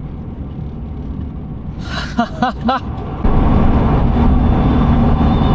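Car driving: steady engine and road noise, which steps up louder about three seconds in.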